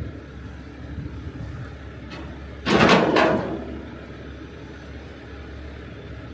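Heavy truck engine running with a steady low hum, broken about three seconds in by a sudden loud burst of noise lasting under a second.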